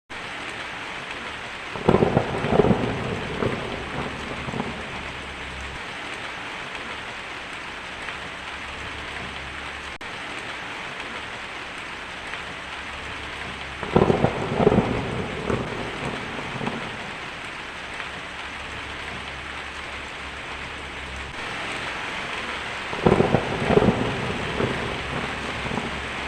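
Steady heavy rain with thunder: three rolls of thunder, each a sharp crack followed by a couple of seconds of rumbling, about a second in, about halfway and near the end.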